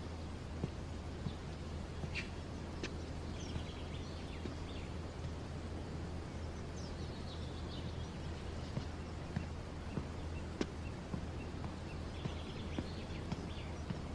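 Outdoor ambience: a steady low hum, with small birds chirping in short twittering runs three times, and a few faint ticks.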